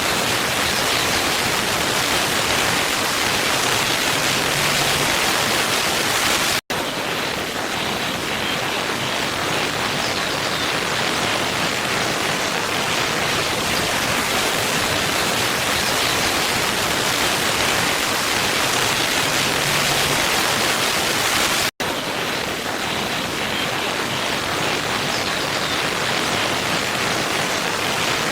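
Steady rushing of a waterfall, an even full-range water noise. It cuts out for an instant twice, about 7 and 22 seconds in.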